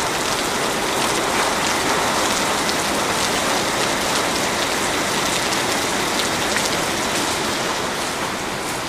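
Very heavy rain pouring steadily, a dense even hiss of downpour with countless individual drops ticking through it.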